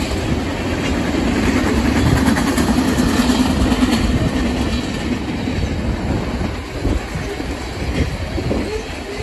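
Freight cars rolling past: a steady rumble of steel wheels on the rails, with the clickety-clack of wheels passing over rail joints.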